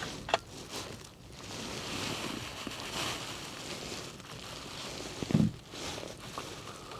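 Wind gusting through the woodland around a bird hide, rising and falling, with a sharp click near the start and a dull knock about five seconds in.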